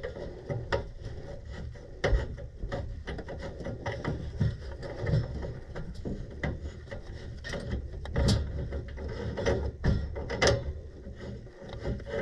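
Irregular clicks, knocks and short scrapes of a wrench and metal fittings as a gas-pipe union is worked by hand to thread it on, a union that will not go on.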